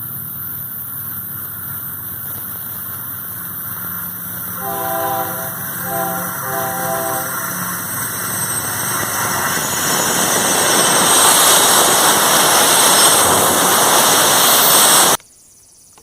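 Diesel freight locomotive hauling a loaded iron-ore train: its air horn sounds three blasts about five seconds in over the running engine. The train's rushing noise then grows steadily louder as it approaches, and cuts off suddenly shortly before the end.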